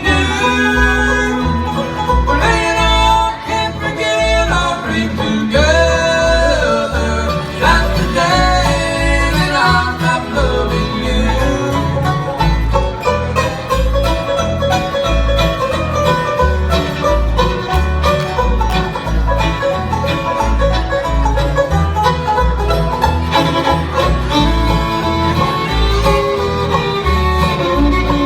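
Bluegrass band playing: banjo and guitar with fiddle over a steady bass beat.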